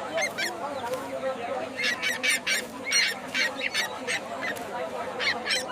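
Birds giving many short honking squawks in quick succession, over a low murmur of background voices.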